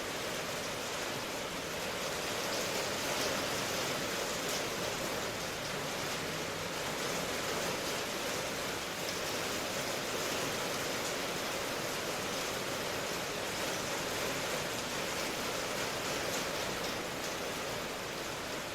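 Steady rain, a dense even hiss with no separate drops or thunder standing out.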